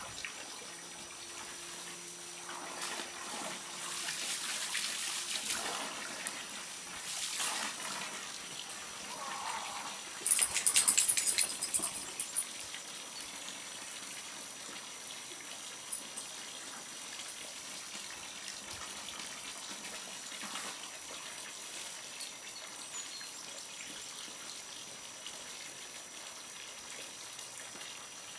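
Water running steadily, with a few louder swells and a loud burst of rapid crackling strikes lasting about two seconds, roughly ten seconds in.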